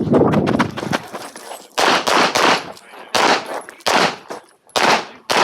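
Handgun shots fired in rapid strings during a timed competition stage. There is a fast run of shots in the first second, then quick pairs and threes with short pauses between them.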